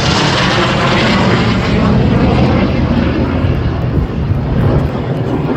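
Loud, steady engine noise of an airplane flying by.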